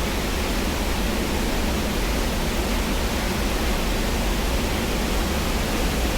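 Water pouring through a lake spillway, a really loud steady rushing, the spillway running high after days of heavy rain.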